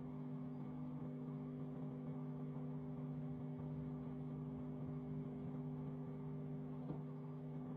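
Microwave oven running with a steady, even hum, and a single faint click about seven seconds in.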